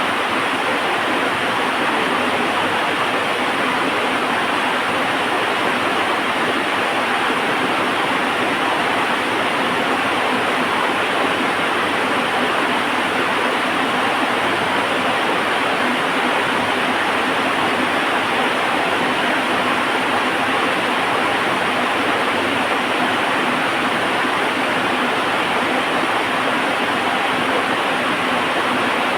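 Heavy rain falling, a steady even hiss with no thunder or crackle standing out.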